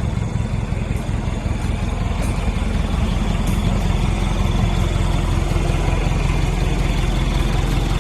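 Four-cylinder Mitsubishi diesel engine of a 2004 Mitsubishi Fuso FE box truck idling steadily.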